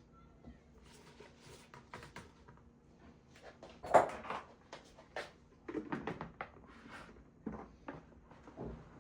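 Household handling sounds: a run of irregular light knocks, taps and rustles as things are moved about, with one sharper knock about four seconds in.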